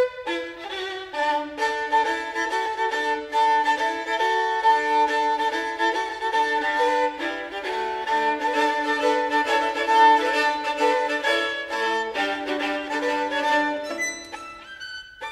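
Instrumental music led by a violin, playing a tune with several notes sounding at once, thinning out briefly near the end.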